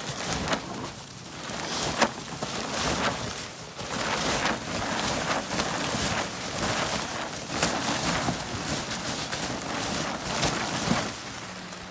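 Wind buffeting the microphone, with irregular crunching and scraping of snow being cleared by hand.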